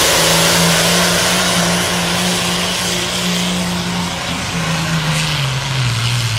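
John Deere pulling tractor's engine running hard under full load on a pull. Its note falls in pitch about five and a half seconds in as the sled drags it down toward a stop.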